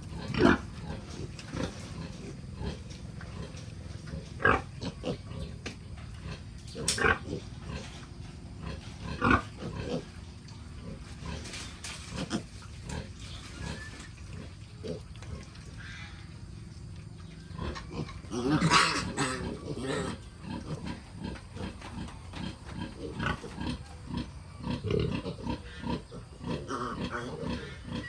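A sow and her piglets grunting and squealing at feeding time: short calls come every few seconds, with a longer, louder burst of squeals about two-thirds of the way through.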